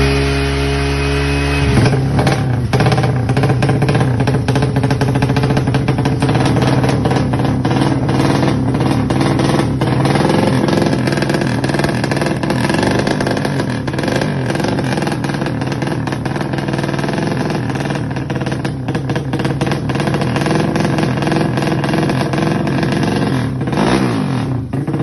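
Yamaha Jupiter underbone motorcycle engine, bored up to 200cc, running and being revved through a loud exhaust. The tone is steady for the first second or so, then turns rough and busy, with the revs dropping and climbing again near the end.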